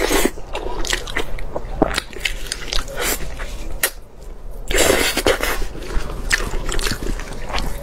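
Close-miked chewing and biting of braised pig tail, with many short smacking clicks. A louder, denser stretch of sound comes about five seconds in.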